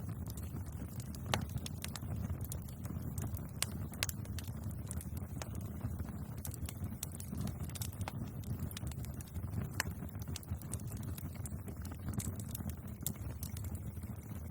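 Bonfire crackling: irregular sharp pops and snaps of burning wood over a steady low rumble of the flames.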